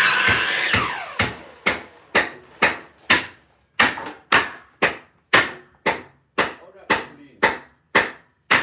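A power saw's noise dies away in the first second, then a hammer strikes wood about fifteen times in a steady rhythm of roughly two blows a second.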